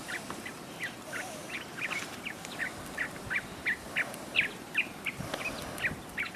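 A bird calling in a rapid, steady series of short chirps, about three or four a second, over a faint background hiss.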